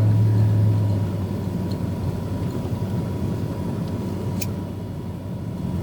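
Vehicle driving on a snowy road, heard from inside the cabin: a steady low engine and road rumble, with a strong low hum that fades about a second in. A brief click about four and a half seconds in.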